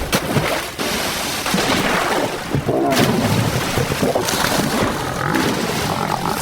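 Heavy splashing and thrashing in shallow swamp water as lionesses grapple with a buffalo bull, with several sharp splash hits and a short animal growl about halfway through.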